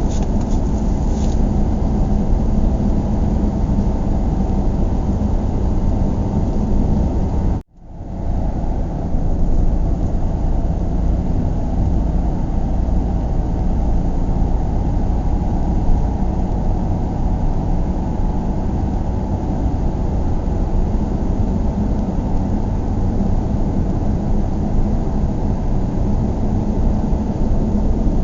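Steady low rumble of a car driving, with road and engine noise heard from inside the cabin. It cuts out abruptly for a moment about eight seconds in, then fades straight back.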